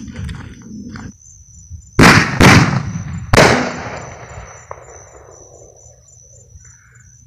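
Three loud firework bangs in quick succession, about two, two and a half and three and a half seconds in, each boom followed by a rolling echo that fades away over a couple of seconds.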